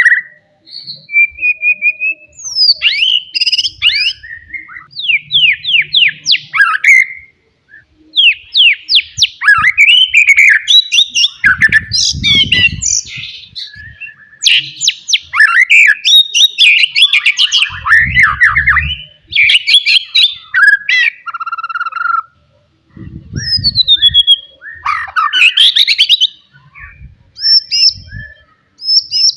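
Forest-type white-rumped shama (murai batu) singing a loud, varied song of whistles, rapid runs of falling notes, trills and harsh notes, in bursts with brief pauses. It is the aggressive song that provokes rival male shamas.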